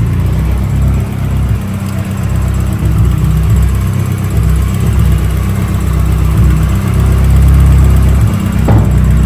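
Turbocharged Nissan Hardbody truck engine running at idle, a loud low rumble with an uneven, choppy beat.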